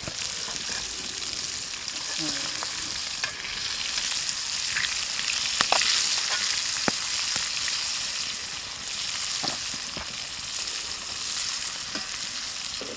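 Fish frying in a pan of hot oil over a campfire: a steady sizzle with sharp pops now and then.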